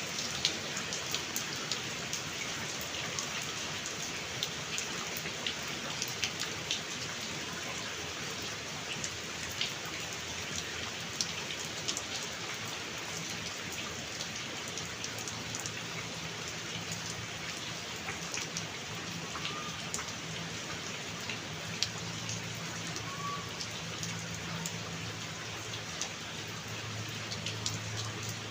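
Steady rain falling on a surface, with individual drops ticking sharply throughout. A low hum comes in from about halfway and grows stronger near the end.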